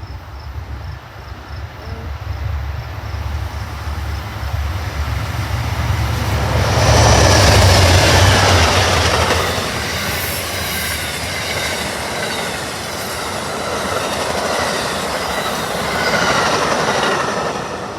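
Train passing close by: a low engine rumble builds as it approaches, then about seven seconds in the cars roll past loudly with rail clatter and high wheel squeal that goes on to near the end.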